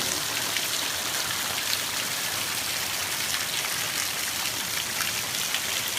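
Heavy rain pouring down steadily, a dense hiss with scattered drop splats.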